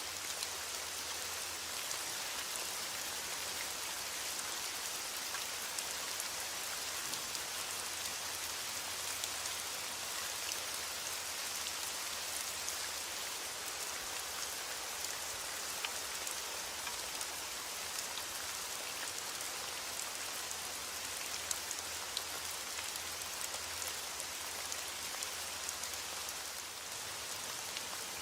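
Steady rain falling on a hard surface, a dense hiss with many small, distinct drop ticks.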